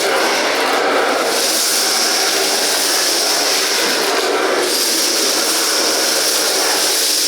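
Bosch BGC05AAA2 bagless vacuum cleaner running: steady, loud motor and rushing-air noise with a high hiss. The hiss dips briefly about a second in and again a little past halfway, as the airflow changes.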